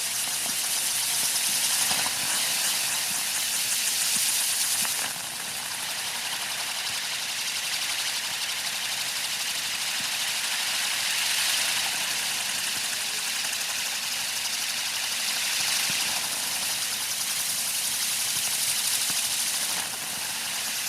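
Ground fountain firework spraying sparks: a steady loud hiss that drops in level suddenly about five seconds in and again near the end.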